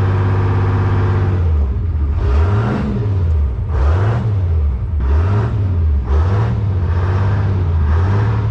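1978 Hein-Werner excavator's diesel engine running steadily, then revved up and down about half a dozen times, roughly once a second, as its touchy throttle is worked.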